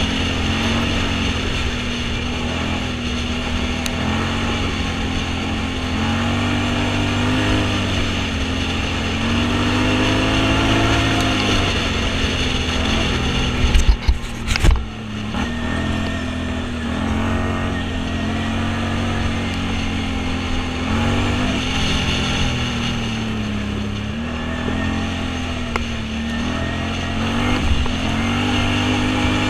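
Off-road vehicle engine running under changing throttle, its pitch rising and falling again and again, with a few loud knocks about halfway through.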